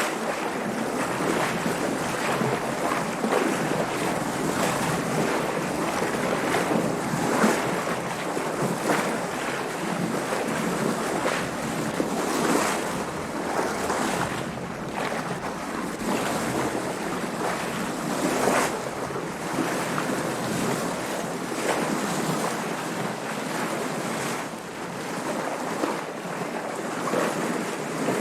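Water washing and splashing against a sailboat's hull with wind, a steady wash broken every few seconds by louder splashes.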